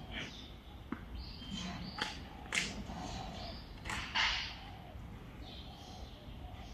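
Small birds giving short, sharp chirps and calls at irregular intervals over a low outdoor background rumble.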